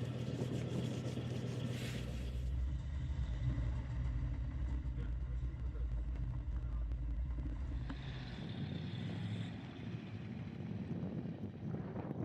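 Old bus's engine running with a steady low rumble; the sound changes about eight seconds in, when the deep rumble drops away.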